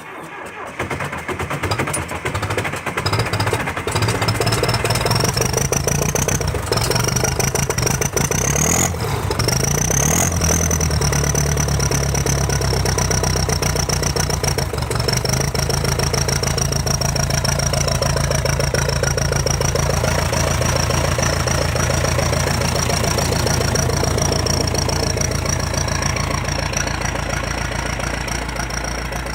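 John Deere 2030 tractor engine running just after a cold start. It builds up unevenly over the first few seconds and picks up speed briefly around eight to ten seconds in, then settles into a steady idle with a thin high whine over it.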